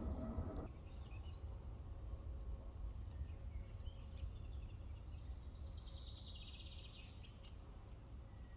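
Outdoor ambience: a steady low rumble with songbirds chirping faintly, including a rapid chirping trill around the middle.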